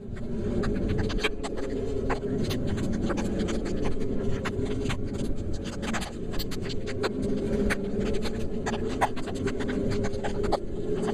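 Steady low rumble of travel over wet ground in light rain, with many irregular ticks of raindrops striking a plastic rain cover close to the microphone.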